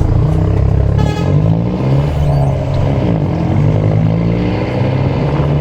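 Mercedes-Benz OM924LA four-cylinder diesel of an LO 916 bus running under load, its engine speed rising and falling.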